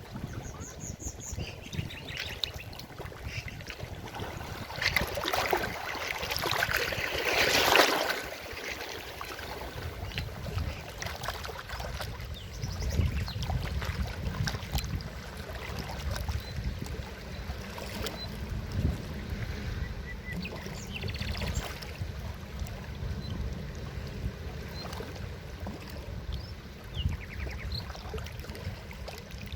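River water flowing over rocks, a steady low rush and gurgle, swelling louder for a few seconds about six to eight seconds in.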